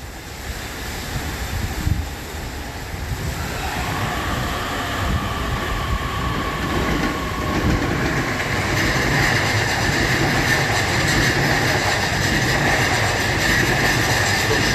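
Electric commuter train moving along the platform, growing steadily louder, with wheel clatter and a motor whine that comes in a few seconds in and strengthens partway through.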